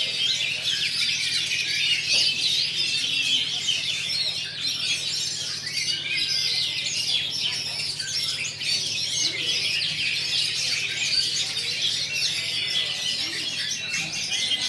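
Several oriental magpie-robins singing at once, a dense unbroken chorus of quick chirps, trills and whistles, over a faint steady low hum.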